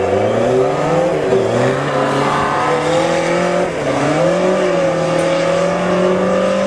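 Motorcycle engine of a home-built dune buggy revving hard while still cold, its pitch climbing over the first couple of seconds, dipping briefly twice, then holding steady at a high pitch.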